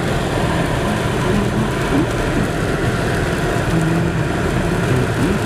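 Car driving through a winter storm, heard from inside the cabin: steady engine and road noise.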